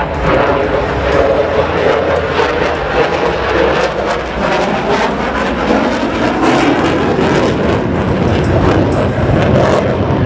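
Jet engine of a Saab JAS 39 Gripen fighter flying its display, a loud steady rushing noise.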